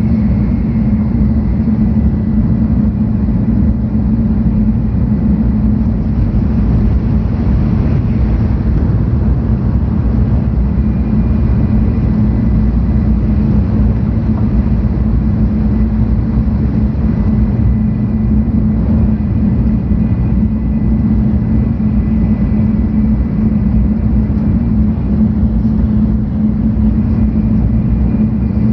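Steady running noise heard inside the passenger car of a 700 Series Tokaido Shinkansen train: a constant low rumble with a strong low hum and a faint thin high whine above it.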